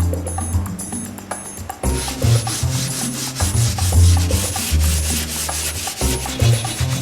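Continuous rubbing strokes on wood, a scratchy hiss that starts about two seconds in and stops just before the end. Background music with a bass line and a ticking beat plays throughout.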